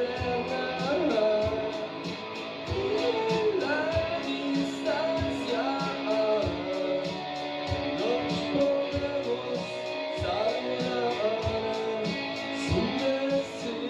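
Live rock band playing: a sung lead vocal over guitar and a steady drum beat, recorded as room sound.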